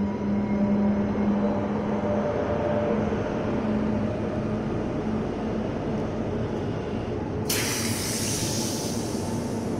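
CP electric suburban train running past on the tracks with a steady rumble and hum. About seven and a half seconds in, a sudden hiss starts and runs on, startling enough to make the listener jump.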